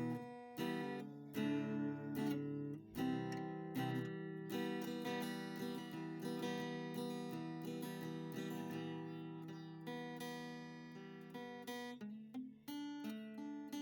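Background music: plucked and strummed acoustic guitar, with notes struck about once a second.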